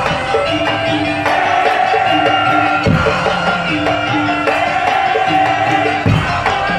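Madurese daul (tong-tong) music played by a parade ensemble: a quick repeating pattern of pitched percussion under a held melody, with a deep low stroke about every three seconds.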